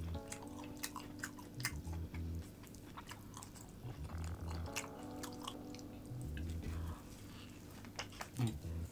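Close-miked chewing and biting of grilled tomahawk beef steak: a stream of short, sharp wet mouth clicks and smacks. Soft background music plays underneath.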